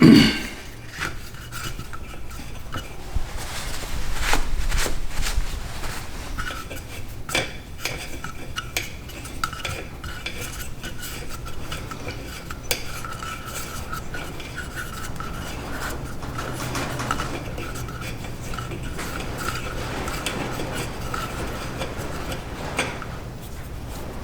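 Clicks, knocks and clatter of hard parts being handled as the air filter housing of a Ford 1720 tractor is opened and the old filter taken out, with one loud knock at the very start, over a faint steady hum.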